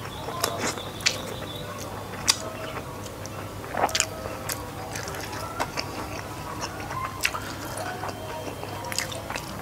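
Close-miked mouth sounds of eating by hand: chewing with scattered sharp lip smacks and clicks, and a cluster of finger-licking smacks about four seconds in.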